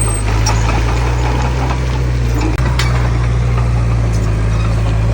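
Heavy diesel engine of earthmoving machinery running steadily with a deep drone, and light metallic clicks and clanks over it.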